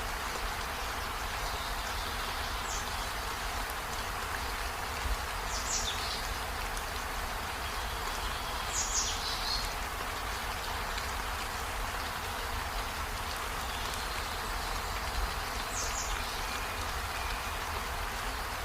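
Steady rain falling on trees, an even hiss. Four brief high chirps are scattered through it, the loudest about nine seconds in.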